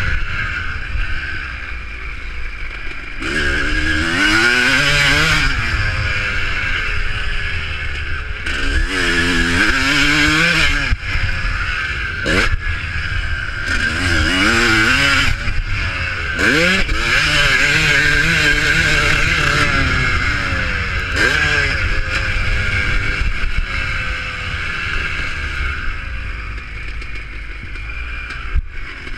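Motocross motorcycles racing, several engines revving up and dropping back over and over as they accelerate and ease off.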